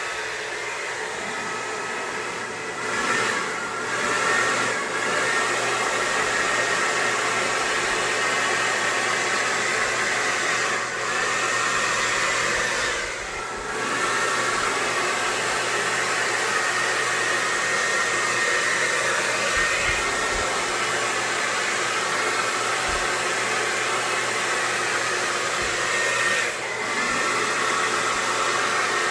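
Hair dryer running, blowing air to push acrylic paint across a pour. It gives a steady rush of air with a high whine, and dips briefly a few times, around 3, 11 and 13 seconds in.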